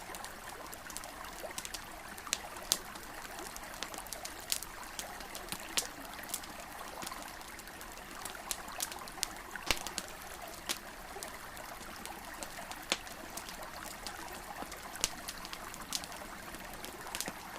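Wood campfire crackling, with sharp pops at irregular moments, several every few seconds, over the steady rushing flow of a river.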